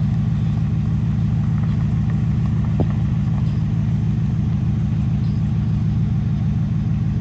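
A vehicle engine running steadily at low revs close by, a deep, even sound with no revving.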